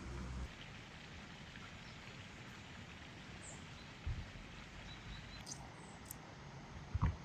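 Outdoor ambience: a steady hiss with a few faint, short, high bird chirps, and two brief low thumps, one about four seconds in and a louder one near the end.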